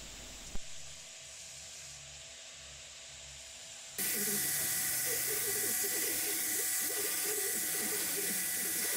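Belt grinder with a 60 grit ceramic belt grinding hardened steel: a loud, steady hiss with a high whine that comes in abruptly about four seconds in, after a quieter stretch with a low hum and one click.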